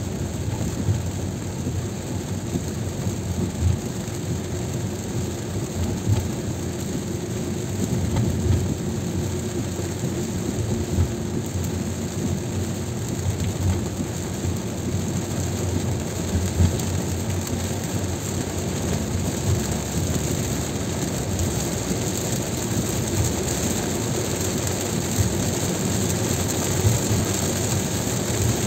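Car driving in heavy rain: steady road noise from tyres on the wet surface mixed with rain on the car, with small irregular knocks through it.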